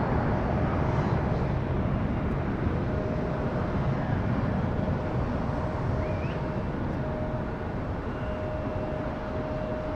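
Jet airliner engine rumble, deep and steady, slowly fading as the aircraft draws away. A thin steady whine rides on top from about three seconds in.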